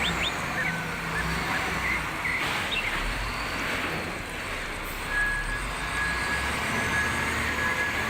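Steady engine noise of a vehicle running, with a few short bird chirps in the first seconds and a thin steady whine in the second half; it cuts off abruptly at the end.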